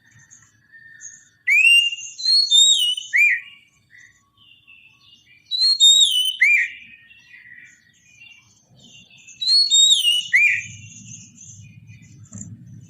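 Oriental magpie-robin (kacer) singing: three loud whistled phrases about four seconds apart, each a rising note followed by falling swoops, with softer twittering between them. A faint low rumble comes in near the end.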